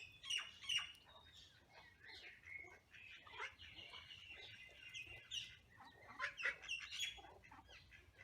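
Birds calling: a busy run of short, sharp calls, with one longer held call in the middle.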